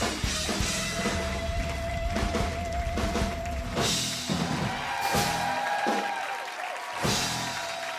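Band music with a drum kit: a steady drum beat with cymbal crashes and a long held note over it.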